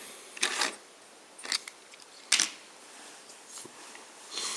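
Small die-cast metal toy vehicles clicking and clattering as they are handled and picked from a box: a few separate short knocks about a second apart, then a longer rustle near the end.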